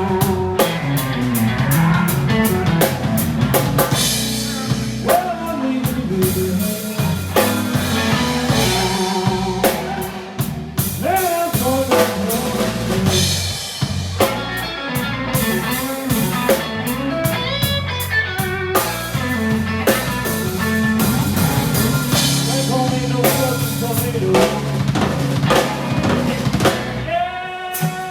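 Live blues band playing an instrumental passage: drum kit with bass drum, snare and rimshot hits over bass and lead lines that bend in pitch. The playing thins out and drops in level near the end.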